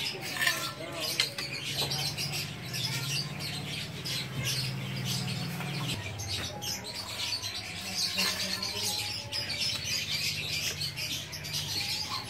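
Small birds chirping and twittering in a rapid, continuous stream, over a steady low hum.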